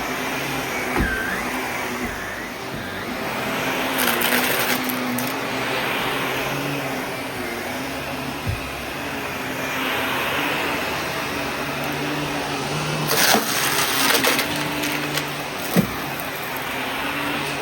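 Vacuum cleaner running steadily as it is pushed back and forth, its hiss swelling and fading with each stroke. A few sharp clicks and crackles come through, most of them close together about three-quarters of the way in.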